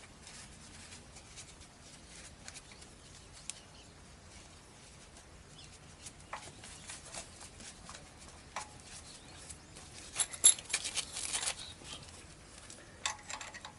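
Light scraping, scratching and small clicks of hand work on a motorcycle brake part, scraping off paint that a stripper has lifted. A denser run of sharp scratching comes about ten seconds in.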